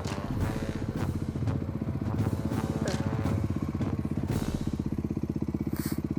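Motorcycle engine running with a steady, fast-pulsing beat, with a few light knocks over it.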